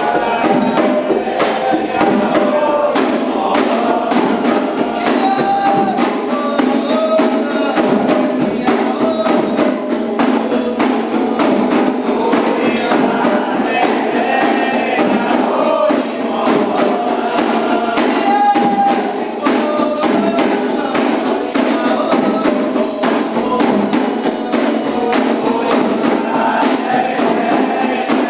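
Candomblé ritual music: a sung chant over fast, steady percussion strokes from drums and a bell or rattle.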